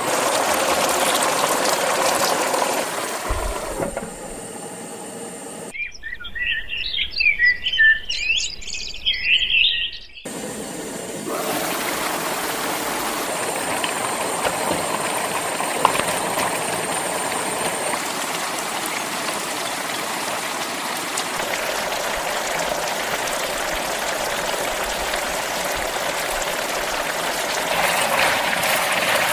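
Lobster pieces frying in a pot, making a steady sizzle. For a few seconds in the middle the sizzle drops away and birds chirp.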